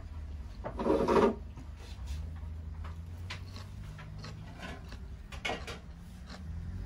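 A crisp crunch about a second in, as a slice of Japanese pickled cucumber is bitten into. It is followed by light clicks and knocks over a steady low hum of the room.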